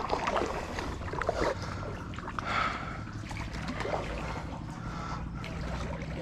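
Kayak paddle strokes dipping and splashing in river water, with a few light knocks near the start.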